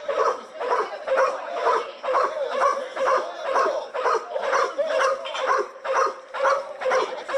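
A dog barking over and over in a steady run, about two to three barks a second.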